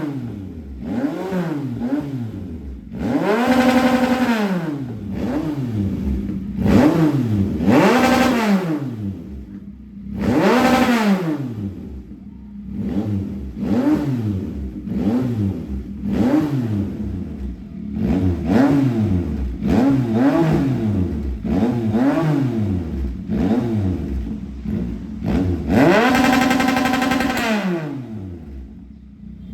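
2022 Yamaha XSR900's inline three-cylinder engine, breathing through Borris Performance headers and a custom Orion muffler, revved over and over from idle. Most are quick blips; a few are pushed higher and held briefly before the revs fall back to idle.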